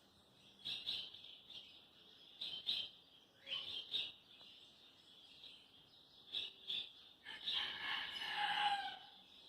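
Small birds chirping faintly and continuously, with scattered short chirps and a louder, longer call near the end.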